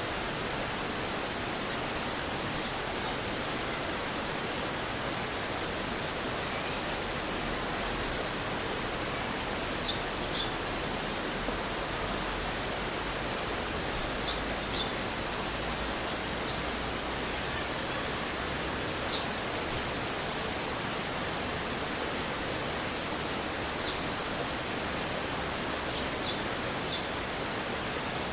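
Stream water rushing steadily, with a few brief high chirps now and then.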